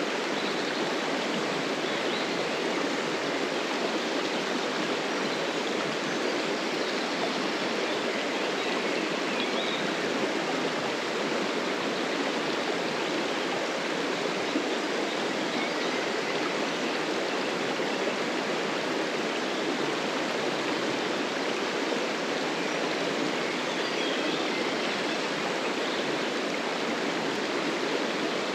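Stream water rushing and flowing steadily.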